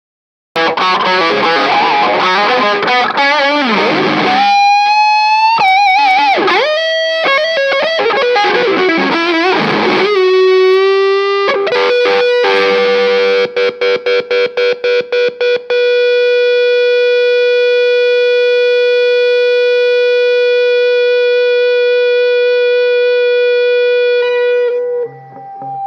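Distorted electric guitar playing chords and a lead line with wide vibrato bends. About halfway through comes a quick run of short repeated picked notes, then one long sustained note held for about nine seconds before it fades.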